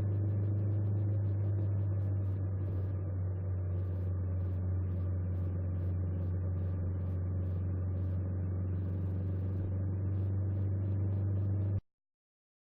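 Honda 400X motorcycle's parallel-twin engine running at a steady pace, a constant low drone with faint ticking above it; it cuts off abruptly near the end.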